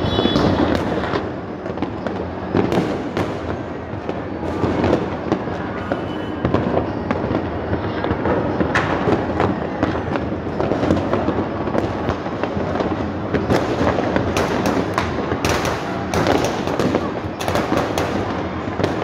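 Many fireworks and firecrackers going off at once: a continuous barrage of overlapping bangs and crackling. The sharp cracks grow thicker in the second half.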